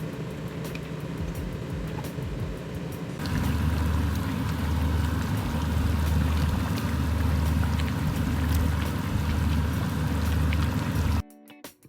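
A pan of chicken masala cooking, with steady sizzling and fine crackles over a low hum. It gets louder about three seconds in, and cuts off suddenly just before the end, where guitar music begins.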